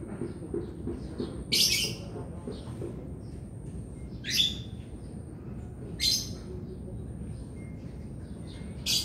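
A bird chirping: short, sharp, high calls about every two seconds, over a steady low background hum.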